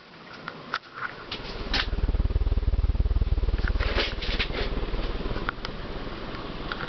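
Six-blade hugger ceiling fan with a cast aluminium vented motor running fast in reverse, its moving air buffeting in a rapid low pulsing that swells from about a second in and eases off after the middle. Scattered sharp clicks and light rattles sound over it.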